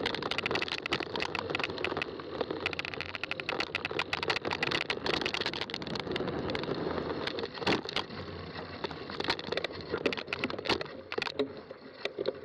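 Fat-tire bike rolling over a rough trail: continuous tyre noise laced with many sharp clicks and rattles from the bike.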